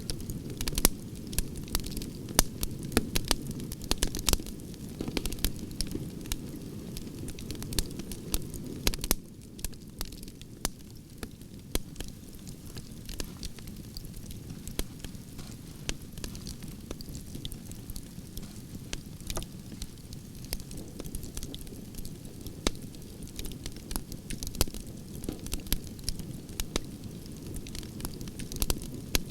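Wood fire burning: a steady low rumble of flame with sharp pops and crackles from the burning logs. The pops thin out for a while in the middle and come thicker again near the end.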